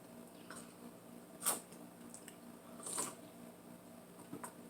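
Faint close-up eating sounds: soft wet mouth clicks and smacks while chewing, with two clearer ones about a second and a half apart in the middle.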